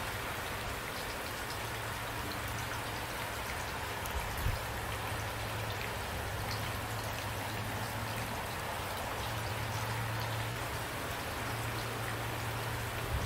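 Steady rain falling, with a low steady rumble underneath and a single short thud about four and a half seconds in.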